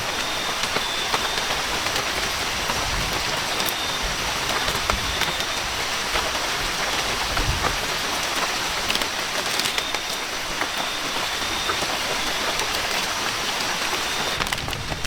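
Steady heavy rain falling, a dense hiss with many sharper individual drop hits scattered through it.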